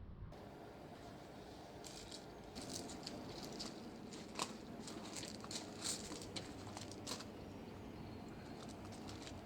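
Scattered light clinks and rattles of hand tools and metal parts being handled during work on an opened axle differential, thickest from about two to seven seconds in.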